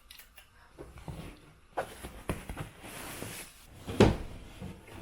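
Unpacking in a small room: belongings handled and rustled, with several light knocks and one louder thump about four seconds in.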